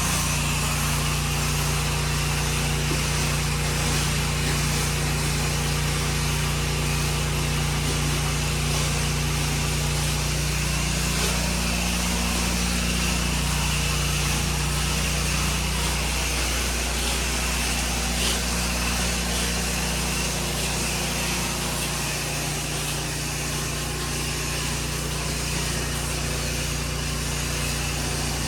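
Small gas engine of a pressure-washing rig running steadily, under the hiss of water spraying from a nozzle. The engine's pitch dips briefly a couple of times.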